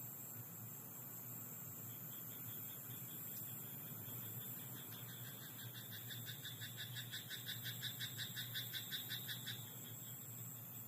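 A frog in a rice paddy calling: a fast run of pulsed croaks, several a second, growing louder for about five seconds and then stopping abruptly. A fainter pulsed call comes before it, over a steady background hiss.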